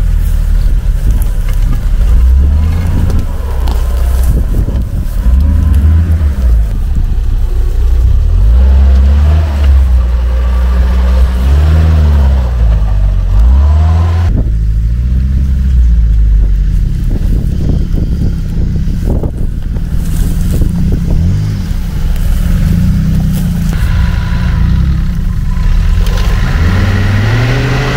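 Off-road SUV engine running under load with a heavy low rumble, its revs rising and falling as the throttle is worked over rough ground.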